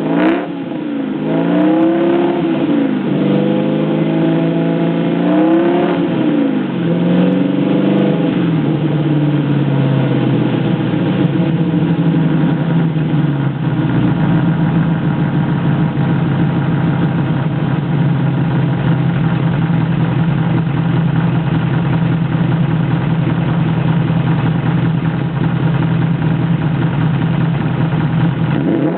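Alfa Romeo Montreal's V8 engine revved up and down about three times. It then eases down and holds a steady speed for the rest of the time.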